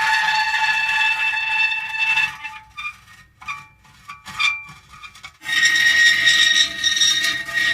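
Metal creaking and squealing as parts rub under strain. Long screeching tones with several pitches at once, breaking into short squeaks in the middle, then a long squeal returns at a different pitch about five and a half seconds in.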